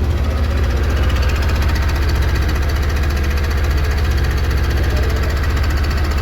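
Suzuki Access 125 scooter's single-cylinder four-stroke engine running steadily at constant speed, its exhaust giving an even, rapid pulse with a deep hum.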